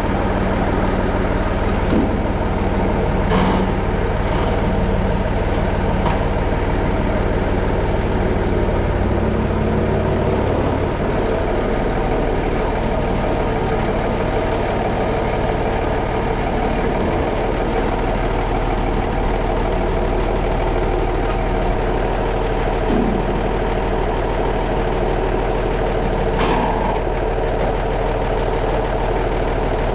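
Massey Ferguson 35X tractor engine running steadily, its low note shifting a little about a third of the way in, with a couple of short clunks, one early and one near the end.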